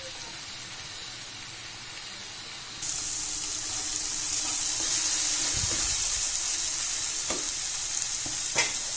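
Mashed aubergine with peas and tomato sizzling as it fries in a non-stick kadhai while a spatula stirs it. The sizzle steps up louder about three seconds in, with a few light spatula strokes against the pan near the end.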